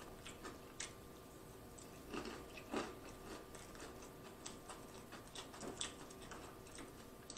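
Faint chewing of a mouthful of chopped salad, with scattered small clicks and scrapes of a plastic fork picking through a plastic takeout tray; a few clicks stand out about two, three and six seconds in.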